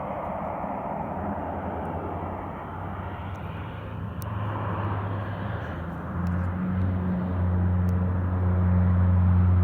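Fire-fighting water bomber aircraft droning overhead, its engine note steady and growing louder as it comes in over the lake.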